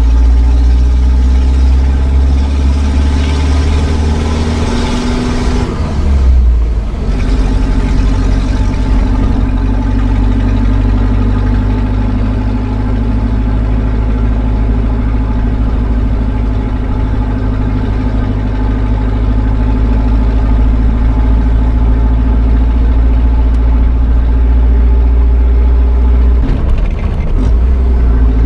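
Opel Frontera 2.3 turbo-diesel four-cylinder running loud through a straight-pipe exhaust with no catalytic converter, as a steady low drone. The sound dips briefly and changes pitch about six seconds in, and again near the end.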